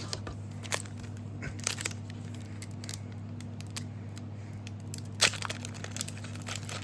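Trading card booster pack wrapper crinkling and tearing as it is opened, with scattered crackles and one sharper crack about five seconds in, over a steady low hum.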